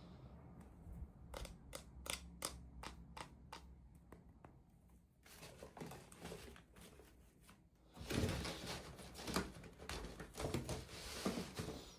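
Toy packaging being handled and opened by hand: a run of small sharp clicks and taps, then a few seconds of rustling and crinkling near the end.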